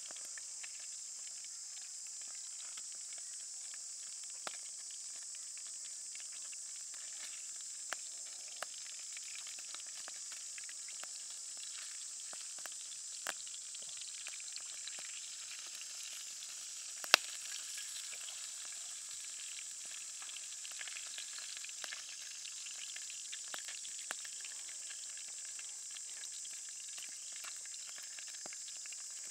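Salmon pieces frying in hot oil in a small pan, a steady high sizzle with scattered pops, and one sharp click a little past the middle.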